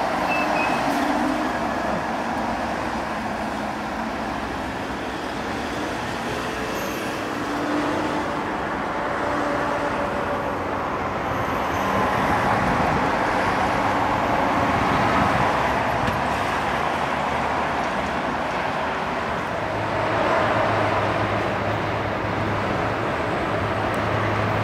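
Road traffic passing, then a freight train hauled by an electric locomotive approaching with a steady rumble; a low hum comes in near the end.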